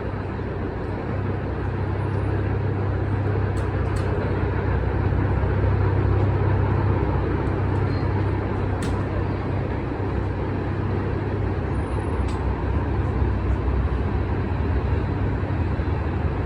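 A CSX freight train passing, giving a steady low rumble that swells slightly over the first few seconds, with a few short sharp clicks.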